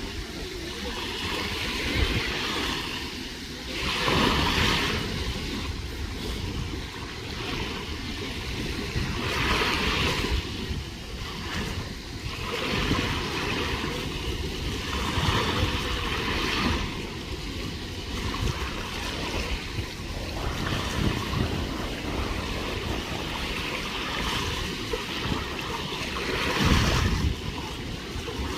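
Sea waves washing onto a beach in surges every few seconds, with strong wind buffeting the microphone.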